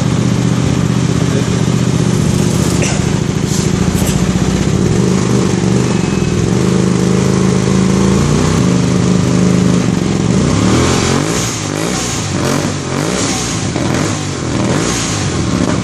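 Hyosung GT250R's V-twin engine running through an aftermarket Italian exhaust, holding a steady low note for about ten seconds, then its pitch wavering up and down.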